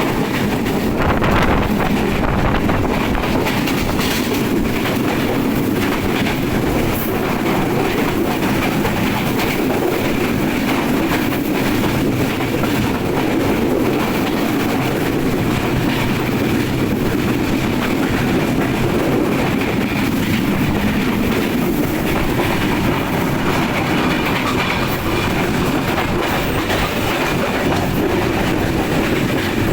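Nilsagar Express train running on the rails: a steady, loud noise of wheels on track that holds even throughout.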